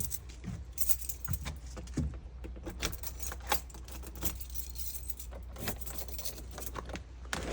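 A bunch of keys jangling and clicking in irregular bursts as a door is unlocked.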